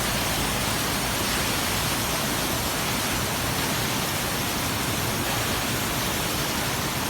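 Large waterfall, its falling water making a steady, unbroken rush.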